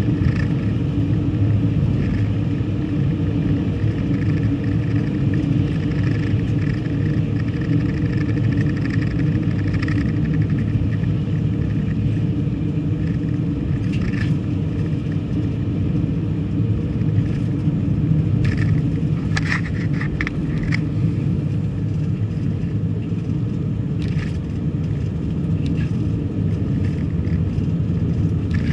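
Steady rumble of a car driving, road and engine noise heard from inside the vehicle, with a few brief clicks about two-thirds of the way through.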